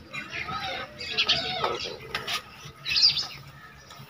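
Birds squawking in several short, high calls.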